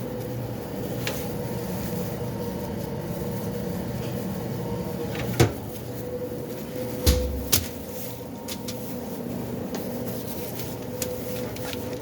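Steady hum of restaurant kitchen equipment with a few sharp knocks and clicks; the loudest knocks come about five and seven seconds in, the second with a low thud.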